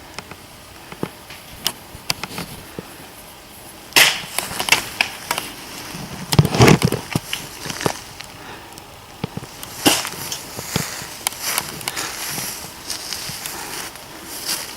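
Scattered sharp snaps and pops at irregular intervals, with rustling, and a louder, deeper burst about six and a half seconds in.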